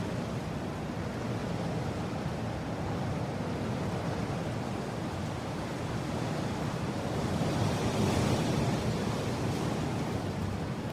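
Steady rushing wind, strongest in the low range, swelling slightly in a gust about eight seconds in.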